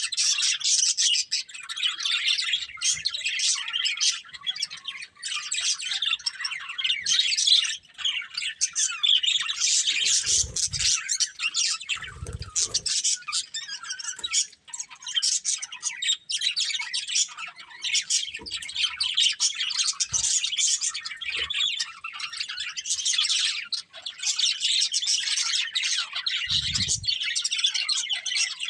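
Budgerigars chirping and warbling continuously in dense, overlapping high-pitched chatter. A few soft low thumps come through, about a third of the way in and again near the end.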